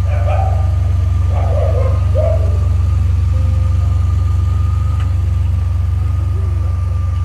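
DeLorean DMC-12's V6 engine idling steadily: a deep, even hum with a thin, steady whine above it.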